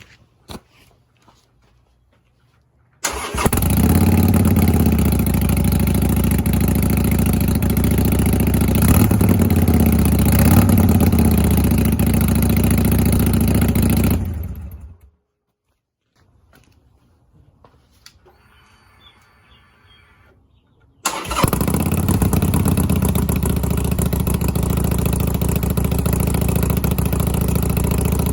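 Harley-Davidson Sportster Iron 883's air-cooled 883 cc V-twin, breathing through Vance & Hines Twin Slash slip-on mufflers, starts about three seconds in and idles, rising briefly twice, then stops. After a cut it starts again about seven seconds later and idles steadily. The two runs compare the mufflers with their stock baffles and with quiet baffles fitted.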